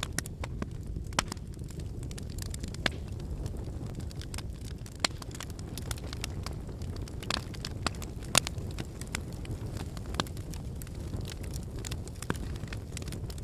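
Wood fire burning: a steady low rumble of flames, with the logs giving irregular sharp crackles and pops. The loudest pop comes about eight seconds in.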